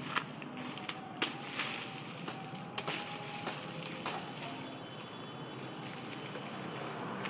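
Sugarcane stalks being chopped and snapped: irregular sharp cracks and knocks for the first four seconds or so, then only a steady background noise.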